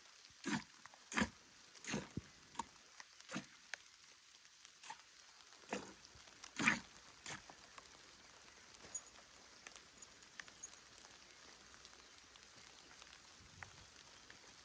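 Streams of milk squirting into a pail during hand milking of a cow, in short strokes about every 0.7 s for the first few seconds, then a few more spaced apart before they stop. Light rain patters faintly throughout.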